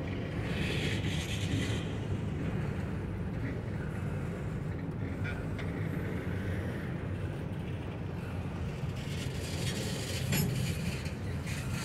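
Intermodal freight train's container-laden well cars rolling past: a steady rumble of steel wheels on rail. Harsher wheel noise swells about a second in and again near the end, with a single sharp clack about ten seconds in.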